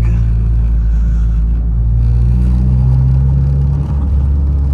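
Car engine and road noise heard from inside the cabin: a steady low drone whose pitch creeps up slightly, then shifts about four seconds in as the engine load changes.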